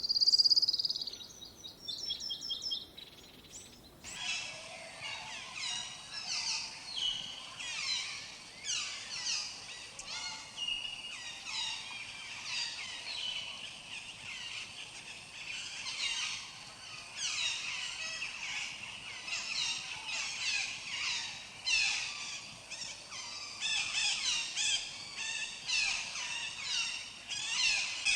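Birds calling. A loud clear whistle with quick repeated short notes opens, then about four seconds in it cuts abruptly to a dense chorus of many birds chirping and twittering over each other.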